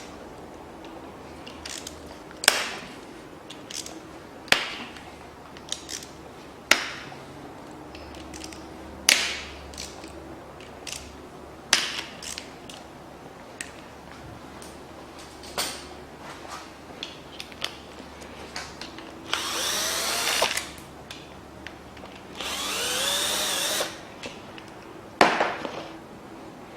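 Scattered clinks and knocks of hand tools on metal engine parts, then two bursts of about a second each from a power drill-driver spinning, its pitch rising, about two-thirds of the way through. The bolts of the timing chain guides and tensioner are being taken out.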